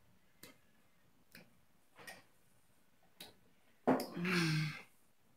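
Chewing close to the microphone: a few soft, separate mouth clicks and smacks about a second apart. About four seconds in comes a louder, breathy, low-pitched vocal sound, with a click, that lasts under a second.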